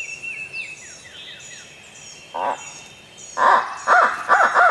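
Songbirds chirping in a dawn chorus. About two seconds in, a single hoot, then a loud, close series of rising-and-falling hoots in the barred owl's pattern.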